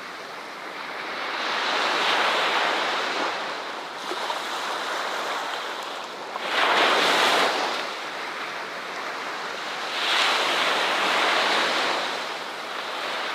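Ocean waves breaking and washing up on a beach, the surf swelling and easing, with three louder surges: one about two seconds in, a sharp one about seven seconds in, and a longer one about ten seconds in.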